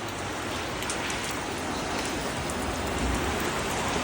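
Heavy rain pouring down steadily, a dense even hiss of drops on the ground.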